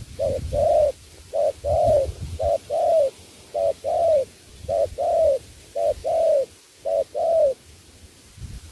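Spotted dove cooing over and over: about seven low two-part coos in a row, each a short note followed by a longer one that bends down at its end, with a low rumble underneath.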